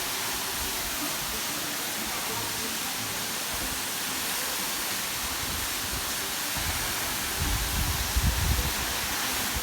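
Steady rushing of a waterfall, with wind buffeting the microphone in low gusts near the end.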